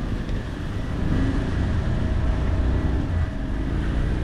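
Low, steady rumble of a motor vehicle and road noise, swelling a little after about a second.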